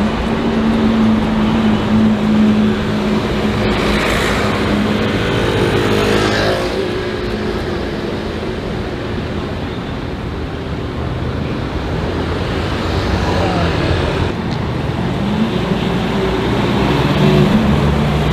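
Porsche Carrera GT's V10 engine running on the road, its note steady for a few seconds and then shifting in pitch about six seconds in and again near the end, over steady road noise.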